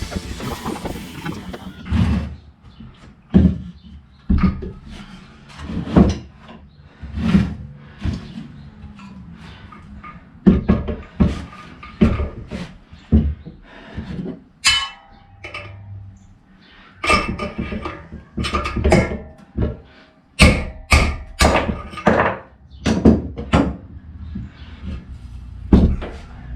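Irregular knocks and clunks, some single and some in quick clusters, from hands-on work on a motorcycle's front wheel and tire.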